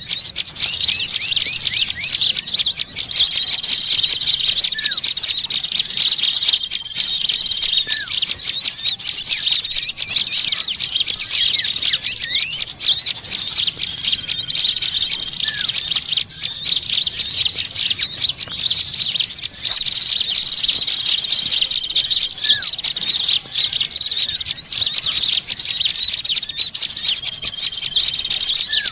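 Dense chorus of many small songbirds chattering and alarm-calling without pause, a lure recording of agitated birds. A thin, held whistle note comes back every several seconds over the rapid, high chirping.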